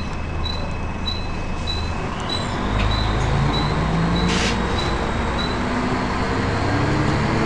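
Volvo B10BLE single-decker bus: a steady high-pitched whine that stops about two seconds in, over a rapid high beeping. Then the engine note rises as the bus pulls away, with a brief hiss a little after the middle.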